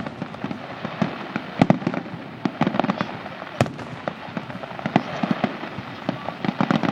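Fireworks display: a quick, irregular run of sharp bangs over steady crackling, the loudest bang about three and a half seconds in.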